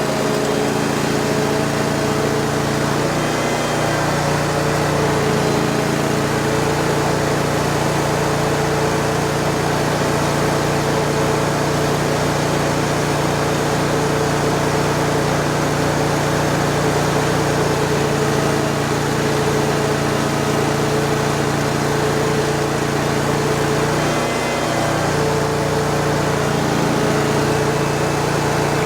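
Ditch Witch FX20 vacuum excavator running steadily, its engine and vacuum blower making a loud, even drone. The note shifts briefly twice, about three seconds in and again about 24 seconds in.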